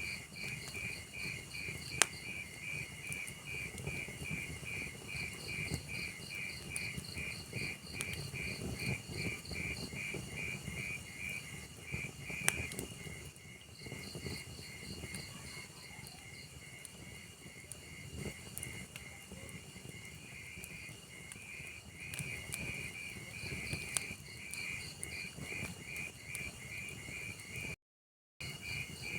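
Log fire crackling with a low rumble and a few sharp pops, under steady cricket chirping that pulses about three times a second. The sound cuts out for about half a second near the end.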